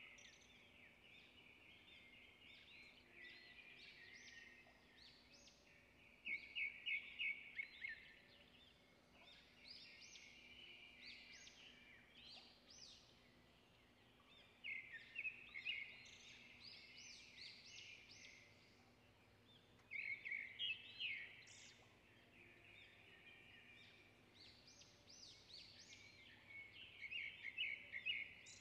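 Faint bird song: phrases of rapid chirping trills that come back every few seconds, over a faint steady hum.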